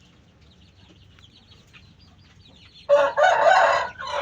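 Faint high chirping of small birds, then about three seconds in a rooster crows loudly for over a second.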